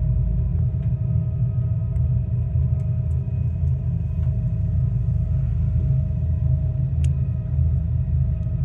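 Funicular railway car running on its track, heard from inside the car: a steady low rumble with a steady whine over it. A sharp click comes about seven seconds in.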